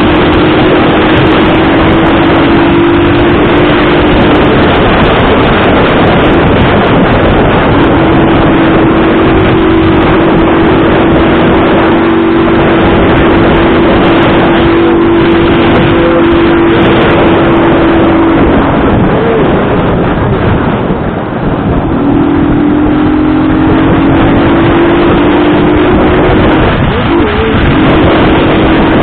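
Motorcycle engine running steadily while riding, under heavy wind rush on the microphone. The engine note fades out and returns a couple of times, rising a little in pitch near the end.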